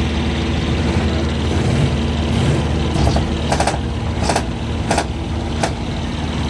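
Large truck engine idling steadily, with about five short sharp bursts of noise in the second half.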